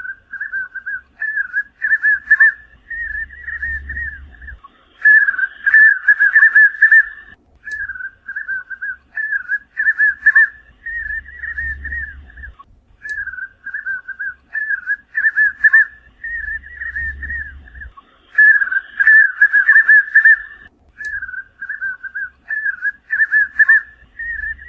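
Spot-backed puffbird (Nystalus maculatus) singing: a long series of quick whistled notes at nearly the same pitch, grouped in phrases with short pauses between them.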